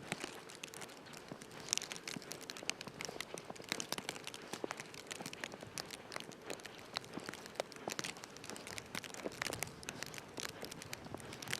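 Dense, irregular crackling and crinkling: many small clicks with no steady rhythm.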